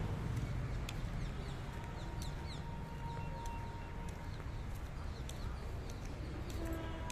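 Several short, falling bird chirps over a steady low background rumble.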